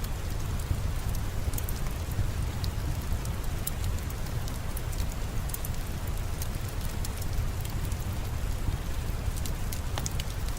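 Steady rain with a deep low rumble, and scattered small sharp crackles from a wood fire in a fireplace.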